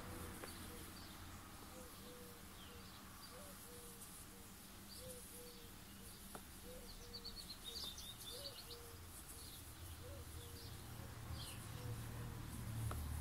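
Faint birds chirping in the background: a steady run of short, repeated low calls, about two a second, with scattered higher chirps, over a low hum that swells near the end.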